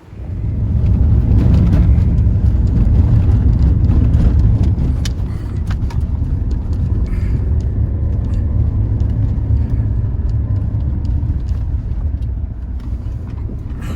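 Car driving over a rough dirt road: a loud, steady rumble of engine and tyres, with scattered knocks and clicks throughout.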